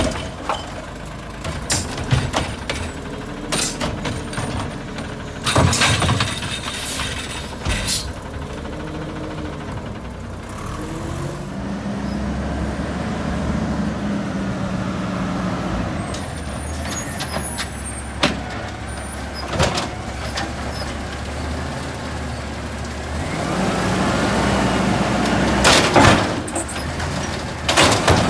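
Garbage truck working a collection route: the engine revs up and down in long swells, broken by sharp clanks and bangs and short air-brake hisses.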